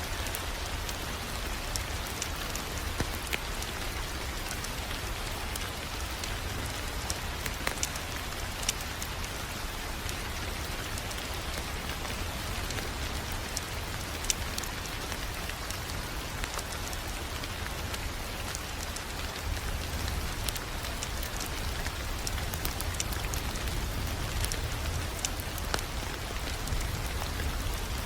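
Wood fire crackling, with frequent small sharp pops at random over a steady low rush.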